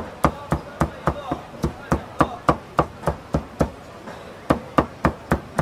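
A knife chopping on a cutting board in a steady rhythm, about three to four strokes a second, with a short pause about four seconds in.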